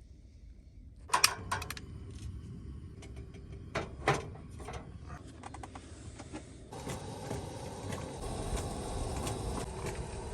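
A few sharp clicks and knocks, then a gas camp stove burner lights about seven seconds in and runs with a steady hiss.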